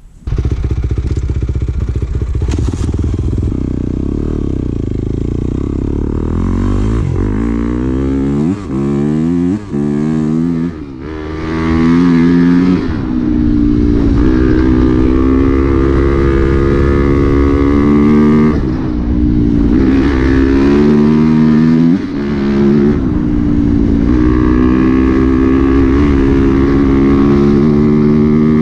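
Dirt bike engine being ridden: its revs climb in a series of rising sweeps over roughly the first ten seconds, then hold high with a few short drops along the way.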